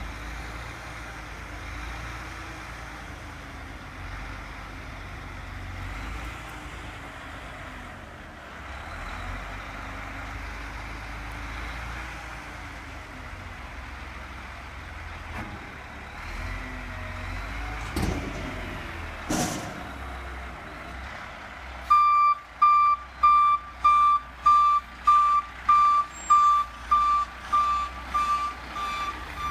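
Rubbish truck engine running, with two short sharp sounds a little after halfway. Near the end its reversing alarm starts, a loud single-pitched beep about twice a second.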